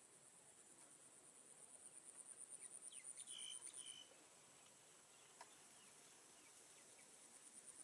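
A high, fast-pulsed insect trill, faint and even, that stops about halfway through and starts again at the very end.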